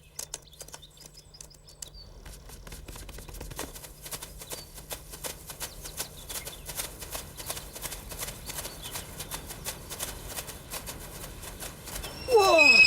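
Horse hooves clip-clopping steadily, as a film sound effect. Near the end a horse whinnies loudly, its pitch falling.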